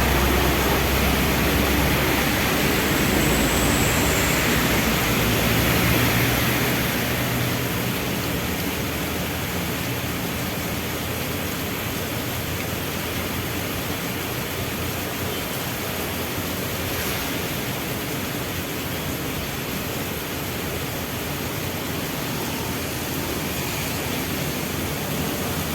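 Steady rain falling, an even hiss. Under it, a low engine rumble from vehicles at the traffic light fades out about seven seconds in.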